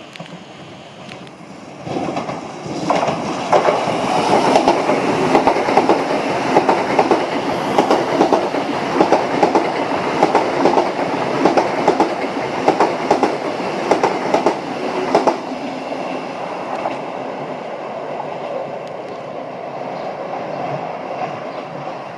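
A passenger train passing along the main line through the station, with a regular clatter of wheels over the rail joints. It comes in suddenly about two seconds in, stays loud for around thirteen seconds, then drops away to a fading rumble.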